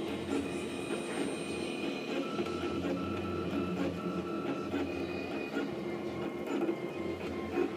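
Leapfrog Creatr 3D printer at work: its stepper motors whine in short steady tones that start, stop and change pitch as the print head moves. Underneath is a steady low hum.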